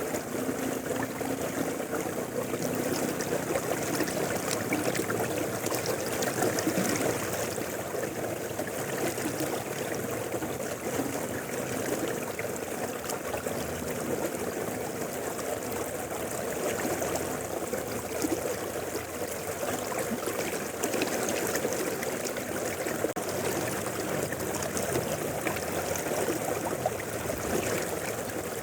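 Mountain river flowing, a steady rushing and babbling of water over stones.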